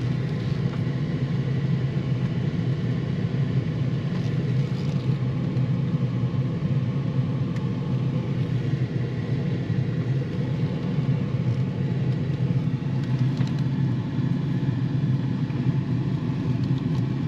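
Ford vehicle's engine running with a steady low rumble, heard from inside the cab as the vehicle is maneuvered slowly into place.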